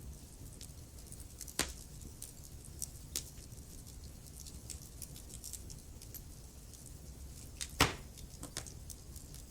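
Wood fire burning in a fireplace: a low steady rumble of flames with scattered crackles and pops, two of them much louder, about one and a half seconds in and again near the end.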